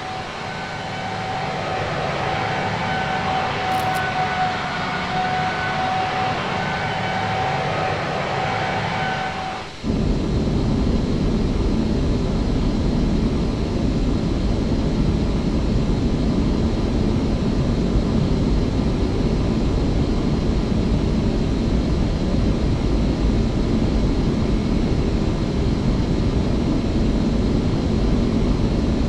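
Jet engines of an Airbus A318 airliner: a steady whine with clear tones for about ten seconds, then an abrupt change to a louder, even roar that holds steady.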